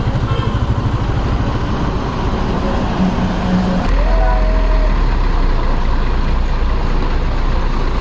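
Truck engine running steadily, its low rumble growing heavier and a little louder about four seconds in.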